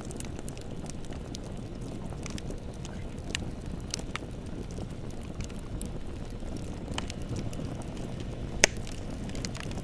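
Bonfire crackling: scattered sharp pops and snaps over a steady low rumble of the flames, with one louder pop near the end.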